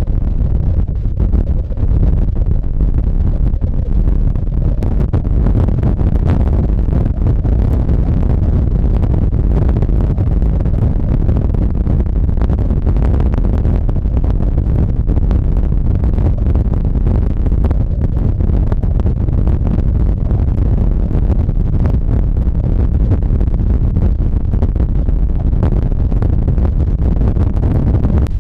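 Storm-force wind buffeting the microphone: a loud, steady low rumble with constant crackling gusts.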